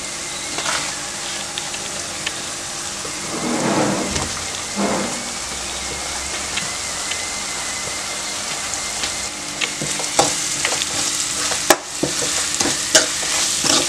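Onions and curry leaves frying in oil in a metal kadai, a steady sizzle, with a steel spoon scraping and knocking against the pan as coriander powder is stirred in; the knocks come more often in the last few seconds.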